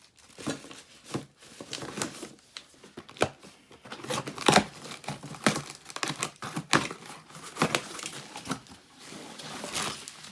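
Packaging wrap being crinkled and torn as engine kit parts are unwrapped: irregular crackling and rustling with sharp snaps throughout.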